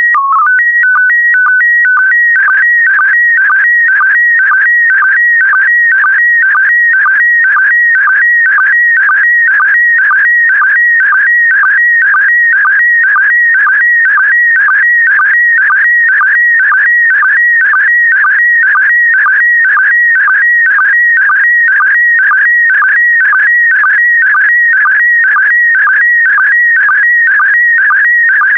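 Slow-scan television (SSTV) image signal in PD120 mode: a loud electronic warbling tone at a high whistle's pitch. It opens with a few short steady header tones that announce the mode, then settles into a sweep that repeats about twice a second as the picture's scan lines are sent.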